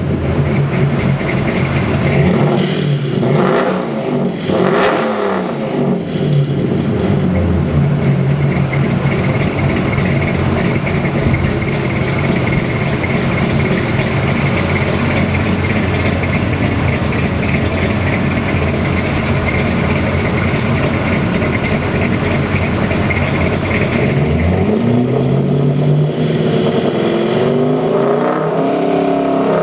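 Chevy 327 small-block V8 crate engine with a thumper hydraulic roller cam and Holley carb, running on the dyno. It is revved up and down a couple of times early on, holds a steady speed through the middle, then is revved again near the end.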